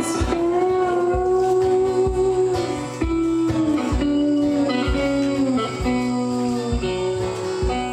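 Instrumental break of a folk song: guitar playing long held notes that slide in pitch, over a steady drum beat.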